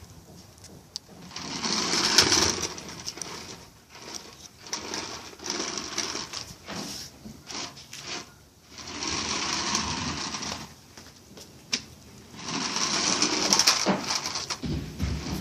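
The electric motor and gears of a toy remote-control car whirring in repeated spurts: about four bursts of a second or two each, with short pauses between them.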